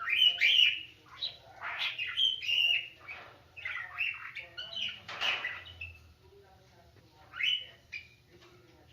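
Pet cockatiel and parakeet chirping and squawking in quick short calls, which stop about six seconds in, with one more call shortly after.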